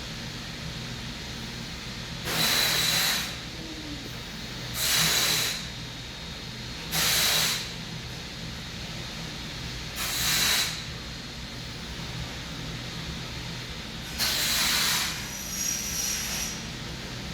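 Short, forceful breaths blown out through the nose, one hissing blast every two to three seconds, with two weaker ones near the end.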